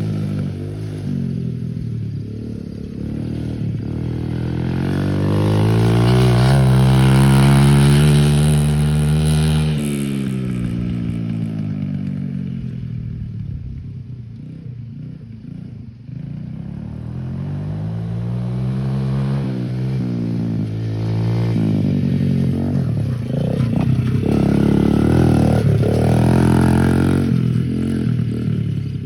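Pit bike's small single-cylinder engine revving up and down as it is ridden around, its pitch rising and falling several times. It is loudest about a third of the way in and again near the end.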